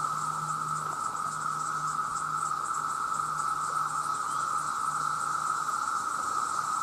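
Massed chorus of male cicadas calling together as one steady, unbroken drone, with a fainter high flickering over it.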